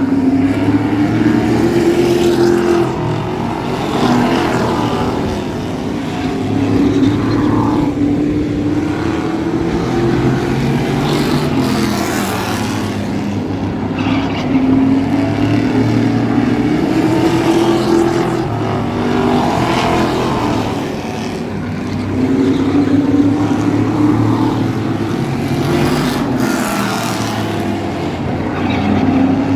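A Thunder Truck race truck's engine running hard under racing load, its pitch climbing and dropping again and again every several seconds as the driver accelerates and lifts.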